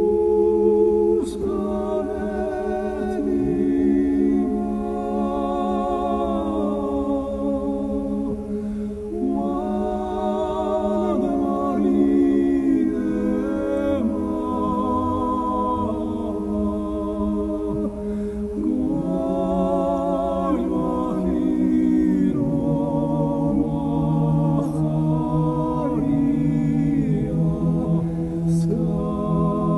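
Music: a slow song with long sung phrases in a wavering vibrato over sustained low accompanying notes.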